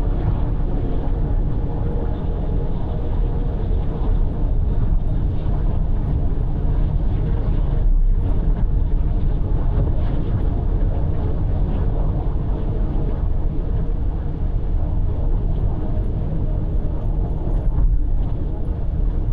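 Steady tyre roar and engine noise of a car cruising at expressway speed, heard from inside the cabin.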